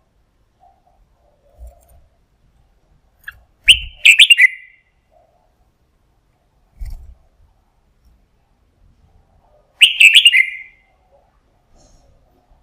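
Red-whiskered bulbul singing two short, bright song phrases about six seconds apart, each lasting about a second, with a few faint low thumps in between.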